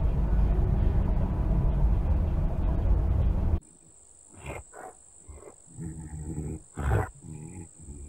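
A loud steady rumble that cuts off suddenly about three and a half seconds in. After it, a cow gives several short low calls, the loudest near the end, over a steady high-pitched whine.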